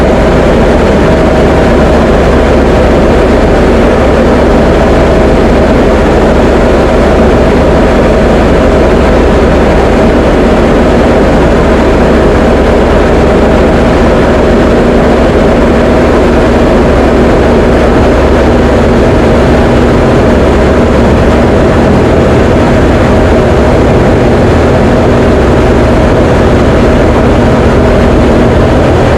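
Diamond DA20 light aircraft's piston engine and propeller droning steadily in flight, an even loud drone with no change in pitch.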